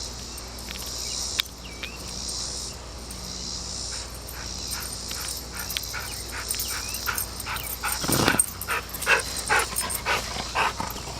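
Yellow Labrador retriever making a run of short, excited yips and whines, coming faster and louder in the second half, with a louder, deeper call about eight seconds in.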